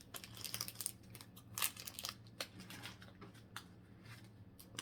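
Pokémon trading cards and their packaging rustling, sliding and crinkling in the hands, in scattered short bursts that are busiest in the first two seconds.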